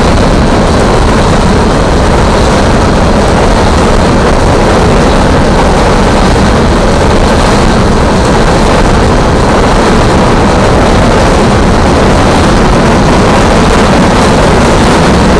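Coal train hopper cars rolling past a level crossing: a loud, steady rumble of steel wheels on the rails.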